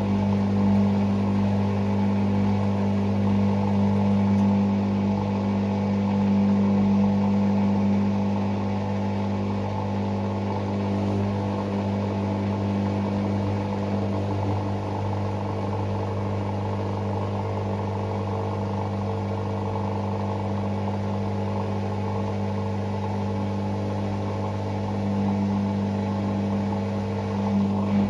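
Hoover Six Sportswear 1300 (AI130) washing machine running mid-programme on Speed Wash, a steady motor hum from the drum drive with no pauses.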